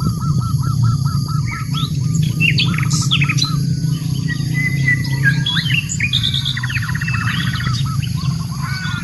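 Several birds chirping and calling together over a steady low hum. It opens with a quick run of repeated chirps on one note, followed by mixed higher whistles and chirps, with a brief buzzy trill about three-quarters of the way through.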